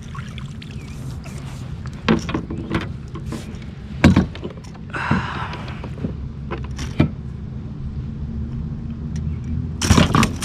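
Scattered knocks and rattles on a kayak as a pike is netted and handled aboard, over a steady low hum. A cluster of louder knocks comes near the end.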